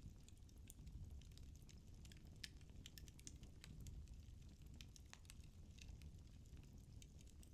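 Burning firewood crackling faintly in a fireplace: irregular quick snaps and pops, several a second, over a low steady rumble of the flames.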